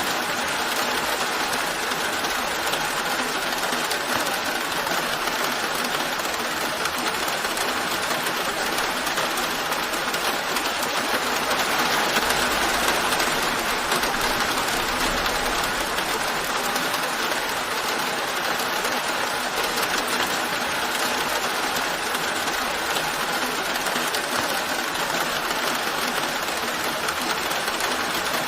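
Steady rain falling, an even hiss that swells slightly about twelve seconds in.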